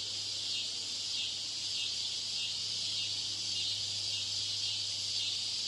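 Steady high-pitched hiss with a low electrical hum under it, the background noise of a poor public-address system. It is laid over the recording to imitate a faulty exam-hall broadcast.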